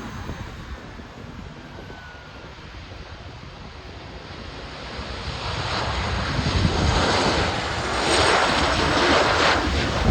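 An airliner's engines grow louder as the plane approaches the runway. The rushing engine noise swells from about four seconds in and is loudest near the end.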